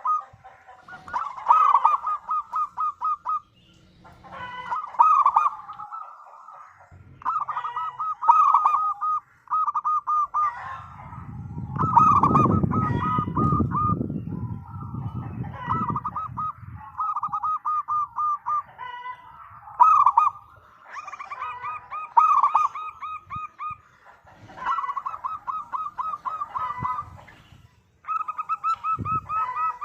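Zebra doves (perkutut) cooing: repeated rapid trains of staccato coos, one phrase after another with short pauses between. A low rumbling noise rises under the calls a little before the middle and fades about five seconds later.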